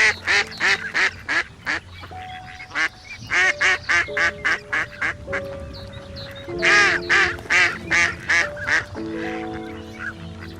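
Ducks quacking in three quick runs of loud calls, over background music.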